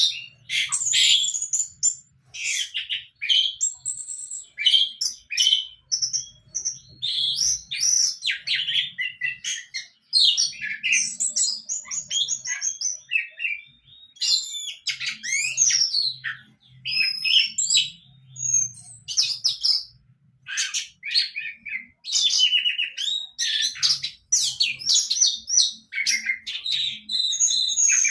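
Young orange-headed thrush singing a fast, varied run of chirps, whistles and warbles in short phrases with brief pauses. It is a juvenile practising the excited full-song display that keepers call 'mabuk'.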